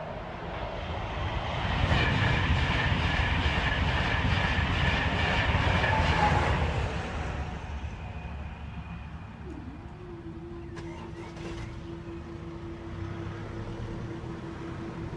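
A train passing over the level crossing, its wheels clicking rhythmically over the rail joints. It swells to its loudest from about two seconds in, then fades away after about seven seconds. A steady low tone follows in the second half.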